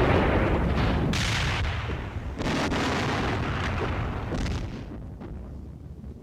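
Tiger I tank's 88 mm KwK 36 main gun firing. A heavy report is still rumbling away, then further sharp reports come about a second and two and a half seconds in, each followed by a long rolling rumble. A weaker crack comes near the end as the sound fades.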